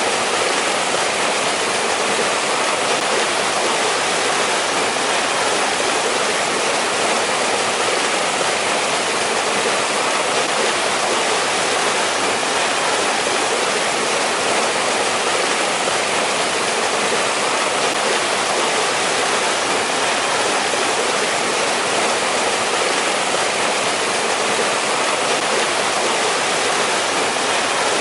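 Mountain stream in winter, water rushing and splashing over rocks in a steady, even rush.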